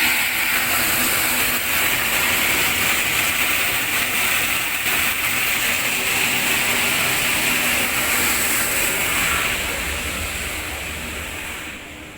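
Cold water gushing into a tank to fill it for the milking-plant wash: a steady loud rushing that starts suddenly and fades away over the last couple of seconds.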